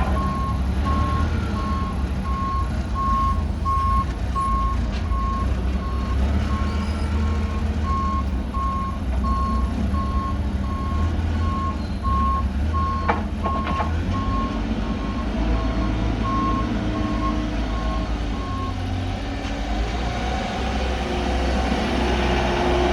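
Delivery truck backing up, its reverse alarm beeping steadily over the low rumble of its engine; the beeping stops near the end while the engine keeps running. A couple of sharp knocks sound about two-thirds of the way through.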